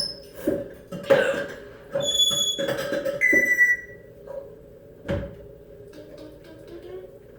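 African grey parrot calling: short harsh, raspy outbursts mixed with brief high whistles, the last one falling in pitch. A single low knock about five seconds in.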